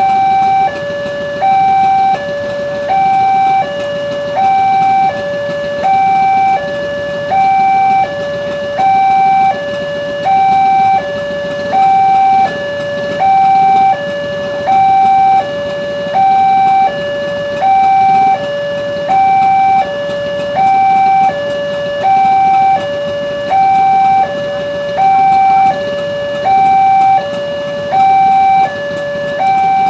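Indonesian railway level-crossing warning alarm sounding continuously, an electronic two-tone signal alternating evenly between a higher and a lower pitch about once every three-quarters of a second, warning that a train is approaching and the crossing gate is closed.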